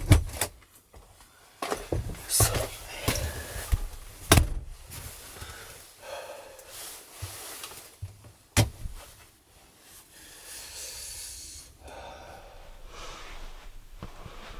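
A handful of sharp knocks and clatters, the loudest about 4 seconds in and near 8.5 seconds, with rustling and scraping between them and a steadier hiss near the end.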